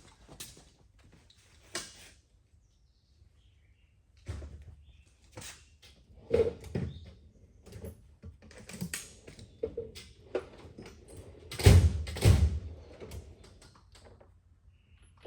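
Metal engine parts and hand tools being handled: scattered clicks, clanks and knocks, with two heavy thunks about half a second apart roughly twelve seconds in.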